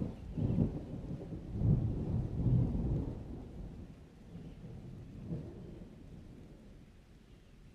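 Thunder rumbling in several rolls over the first three seconds, then slowly dying away.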